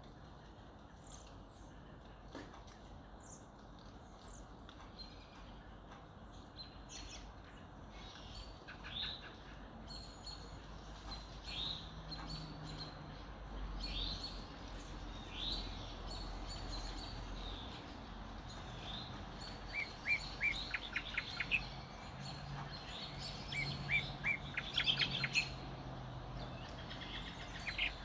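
Several wild birds chirping and singing, with short falling calls throughout and quick runs of rapid notes about two-thirds of the way in and again near the end, over steady background noise.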